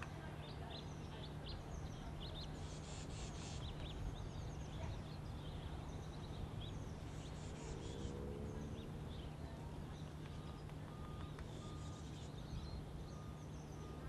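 Wild birds calling: a busy run of short high chirps with a few harsher, scratchier calls mixed in, over a steady low hum. A brief low wavering sound comes about eight seconds in, and a faint note repeats evenly near the end.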